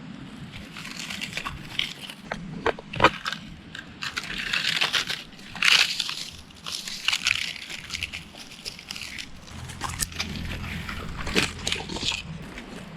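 Dry leaves, twigs and bark crunching and rustling as they are gathered and stepped on in leaf litter, with a few sharp snaps of twigs.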